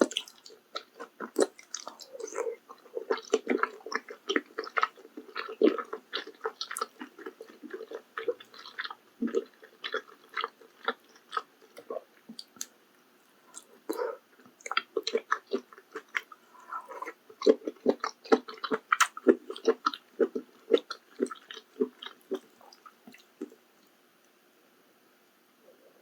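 Close-miked eating of maratang: dense wet chewing and biting, with smacking clicks. There is a short lull about halfway through, and the sound stops a few seconds before the end.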